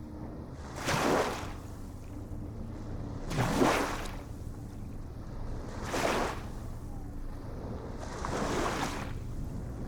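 Ocean waves washing in, one wash about every two and a half seconds, four in all, over a steady low rumble.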